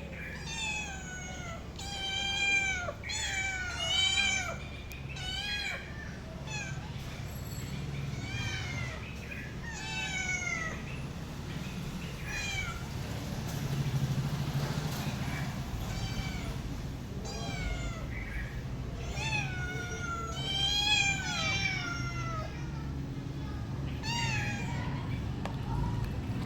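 Domestic cat meowing repeatedly, a run of short calls that rise and fall in pitch, over a steady low hum.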